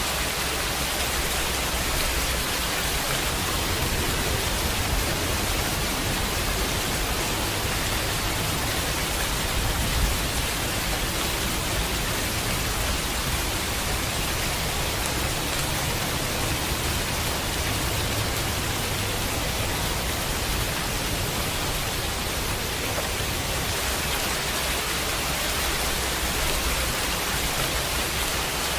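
Steady heavy rain, a dense even hiss, with a low rumble underneath.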